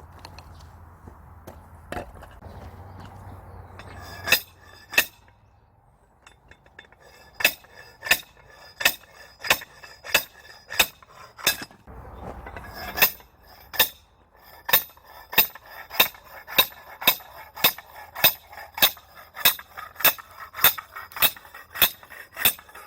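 Steel on steel: a hammer repeatedly striking a steel splitting wedge set in a tough log, each blow a sharp ringing clink, at first in scattered pairs and then steadily about two blows a second. In the first few seconds the last of a saw cutting wood is heard under it.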